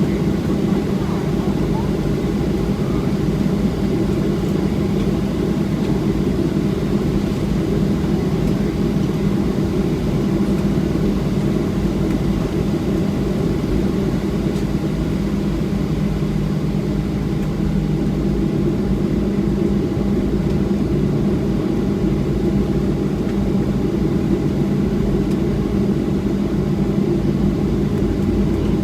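Steady cabin hum inside a Boeing 737-700 taxiing after landing, its engines at idle, with a few steady low tones running through the noise.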